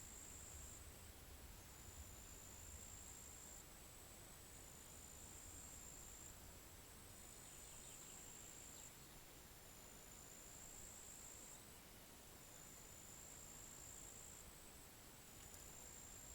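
Faint high-pitched insect trilling, repeated in phrases a second or two long with short gaps between them, over a low wind rumble that eases off a few seconds in.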